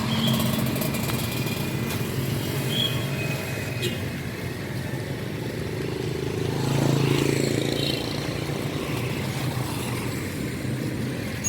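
Street traffic going by, motor vehicles such as motorcycles and cars running past steadily, with one passing closer and louder about two-thirds of the way through.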